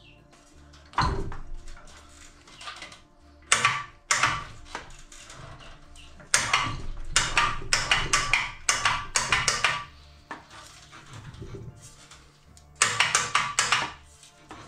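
Metal parts and hand tools clinking and clattering against one another in several bursts of rapid sharp clicks, with quieter pauses between.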